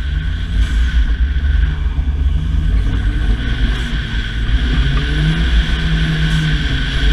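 Ford Fiesta ST rally car heard from inside, its engine running under load on a rallycross course. The engine note rises and falls with throttle over a heavy low rumble and a steady hiss.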